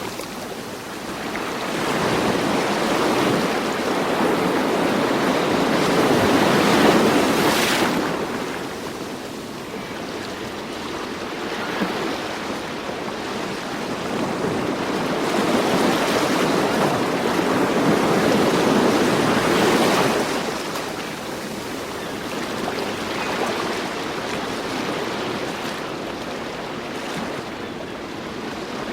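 Ocean surf washing in and drawing back, a steady rush that swells and fades in slow surges, with two big swells peaking about seven and nineteen seconds in.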